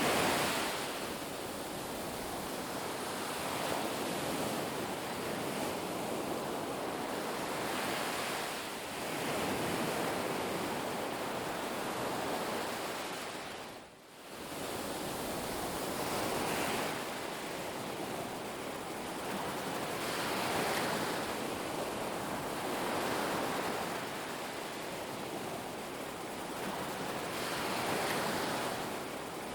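Ocean surf washing onto a beach, a steady rush of water that swells and eases every few seconds as waves break. The sound briefly drops away about halfway through, then returns.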